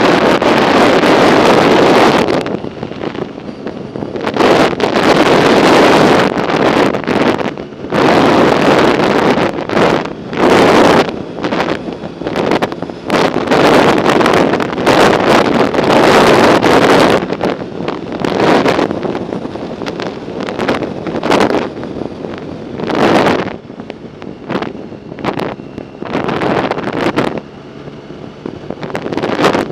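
Wind buffeting the microphone of a camera on a moving bicycle: loud, gusty rushing that surges and drops every second or two.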